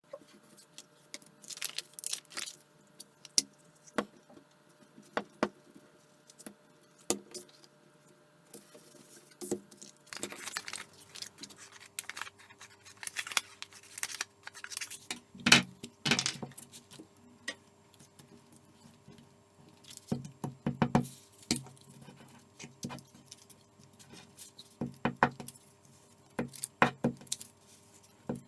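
Irregular clicks, taps and light rattles of small objects being handled, over a faint steady hum, busiest about halfway through.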